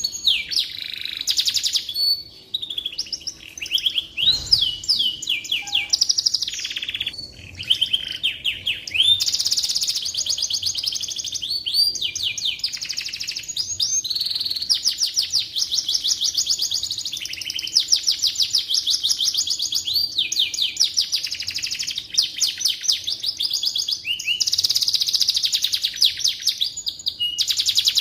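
Domestic canary singing a long, nearly unbroken song of rapid trills, each phrase a fast run of repeated high sweeping notes.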